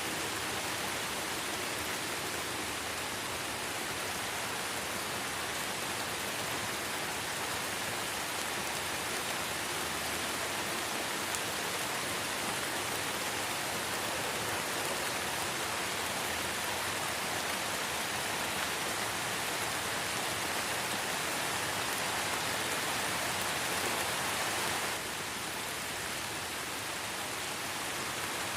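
Light rain falling steadily in a forest, an even hiss of drops, stepping slightly quieter near the end.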